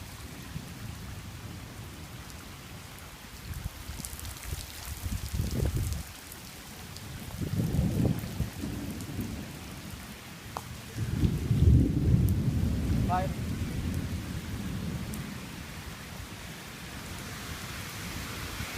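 Steady rain falling, with low rolls of thunder rumbling about five seconds in, again around eight seconds, and loudest from about eleven to fourteen seconds in.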